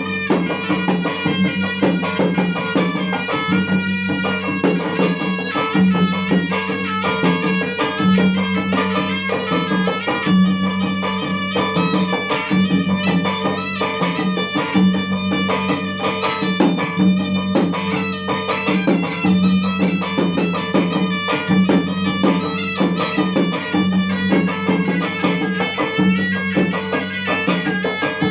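Traditional Bugis gendang music: double-headed gendang drums beaten in a dense, continuous rhythm under a reedy wind instrument playing a melody over a held tone.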